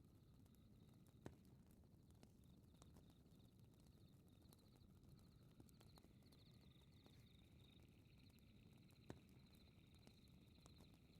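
Faint crackling fireplace: a low fire rumble with small scattered crackles and two sharper pops, about a second in and again near the end. Over it runs a steady high-pitched chirping of night insects in quick repeated pulses, joined by a second, lower chirping partway through.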